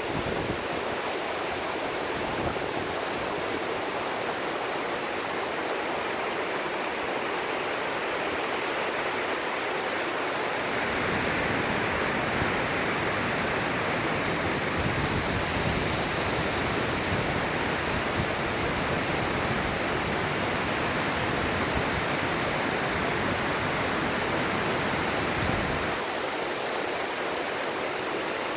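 Steady rushing of a large waterfall, with a deeper rumble added from about ten seconds in until near the end.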